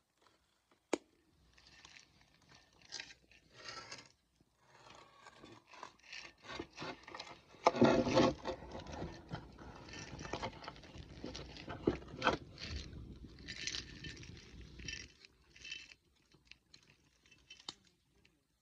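Wood scraping and crunching in a campfire, with sharp crackling pops, loudest about halfway through and dying back to sparse crackles near the end.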